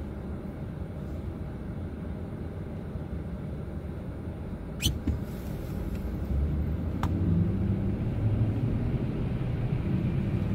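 Pickup truck driving, heard from inside the cab: a steady engine and tyre rumble that grows louder with a stronger engine hum about two-thirds of the way in. A short high chirp comes about five seconds in.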